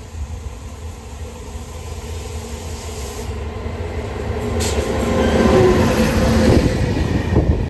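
Train passing at speed close by on the main line, its rumble and rattle building to the loudest in the last few seconds, with a steady whine over it, then cutting off suddenly at the end.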